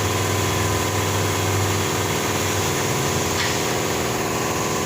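Nissan Navara engine idling steadily.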